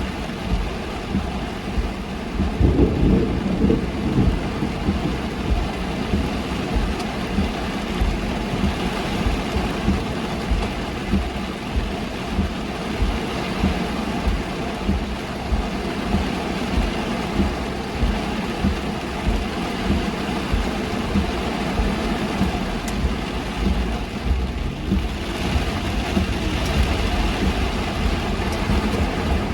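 Heavy rain drumming on a moving car, with a regular thump about once a second and a low rumble about three seconds in.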